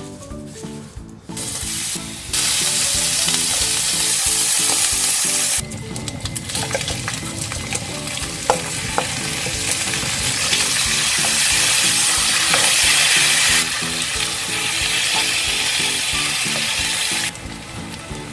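Spicy marinated squid and pork belly (ojingeo-samgyeopsal bulgogi) sizzling loudly as it fries and is stirred with a wooden spatula in a hot frying pan. The sizzle starts about a second in and cuts off shortly before the end, with background music underneath.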